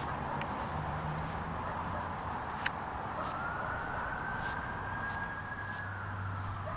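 Steady road traffic noise, with one long high whine that comes in about three seconds in, rises slowly, holds, and falls away near the end. A single sharp click comes just before the whine.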